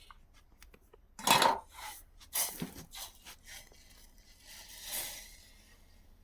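Dishes and utensils being handled: a few short clatters and scrapes, the loudest about a second and a half in, with a softer rustle near the end.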